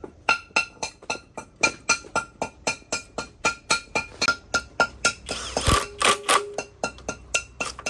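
Rapid repeated metal-on-metal strikes, about four or five a second, each ringing at the same pitch, like hammer taps on a metal part. A denser, louder flurry of strikes comes about five seconds in.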